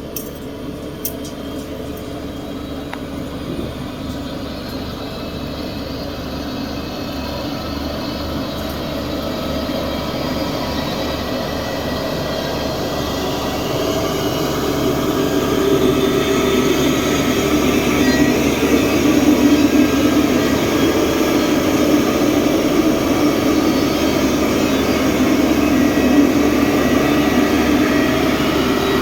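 Diesel engine of heavy construction machinery running steadily, growing gradually louder through the first half and then holding loud.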